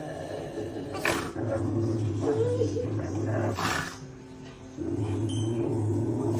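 Dog growling in long low rumbles, with short breaks between them.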